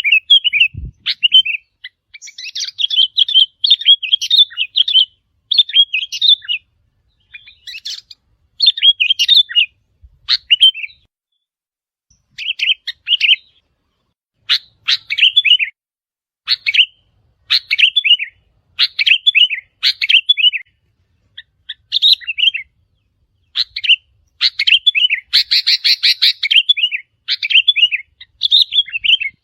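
Sooty-headed bulbul song: short, bubbly phrases repeated every second or so with brief pauses, one stretch near the end denser and louder.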